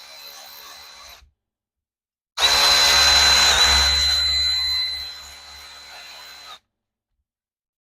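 Power drill spinning a thread chaser through lug-nut threads, a steady high motor whine. One run tails off and stops near the start; a second starts loud about two and a half seconds in, eases off as the chaser runs free, and cuts off abruptly a couple of seconds before the end.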